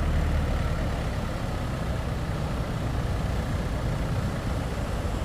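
A heavy engine running steadily at idle, a constant low rumble under a rushing haze.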